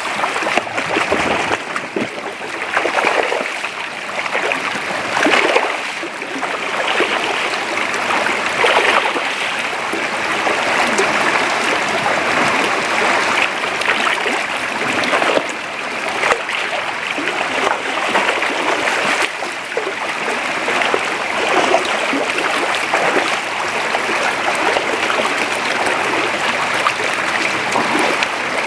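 Creek water running steadily over a shallow streambed, with frequent brief splashes mixed into the flow.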